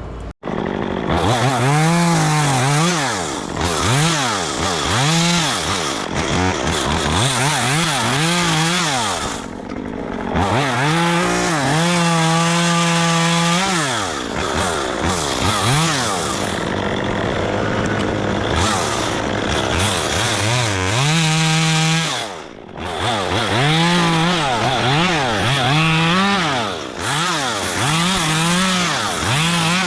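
Two-stroke chainsaw cutting wood, its engine pitch rising and falling over and over as the throttle is worked and the chain loads up in the cut, with a couple of longer stretches held at high revs.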